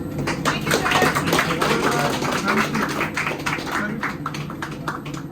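A group of people clapping, dense at first and thinning out near the end.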